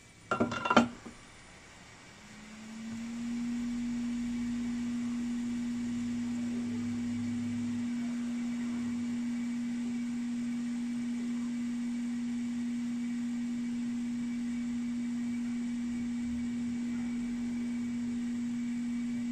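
A few quick clicks, then a steady low electronic tone that swells in over about a second and holds evenly.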